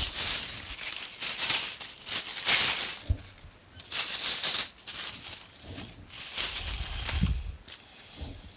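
Small plastic model-kit parts and tools being handled and put away into a box: irregular rattling and rustling, with a few light knocks.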